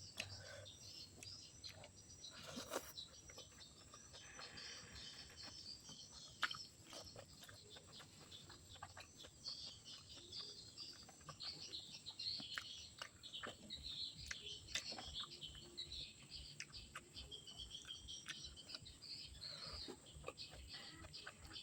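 Faint eating sounds: irregular short clicks of chewing and crunching. Birds chirp steadily in the background.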